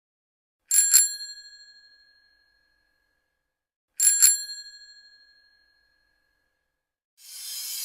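Bicycle bell rung twice, each a quick double ding that rings out and fades over about a second. Near the end a rising whoosh swells up.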